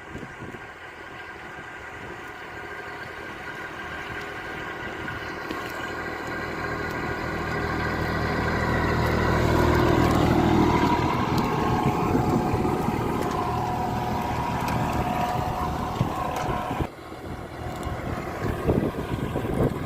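Vehicle engine running steadily, growing louder over the first half and then holding, with a sudden drop in level about three-quarters of the way through.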